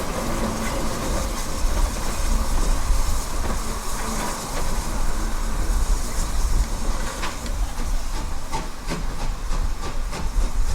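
Heritage railway train running on the line: a steady rumble with scattered clicks of the wheels on the rails, under a hiss.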